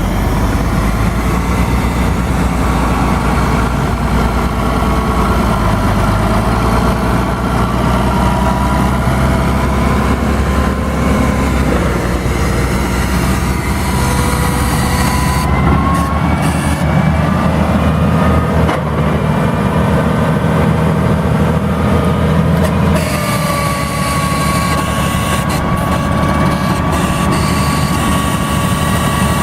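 Case 5130 tractor's six-cylinder diesel engine running steadily. Its note shifts about halfway through and again later, where a steady whine settles in.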